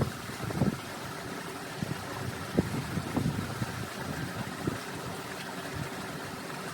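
Wind buffeting the microphone: irregular low rumbles and bumps over a faint steady hum.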